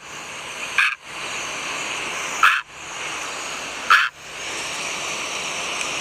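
An egret giving three short croaks, about a second and a half apart, over a steady background hiss.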